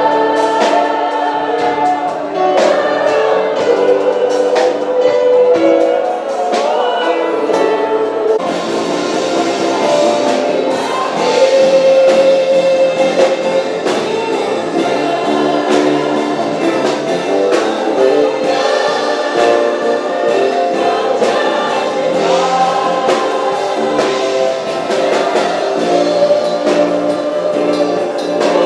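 Gospel worship music: a choir singing with band accompaniment, the band growing fuller about eight seconds in.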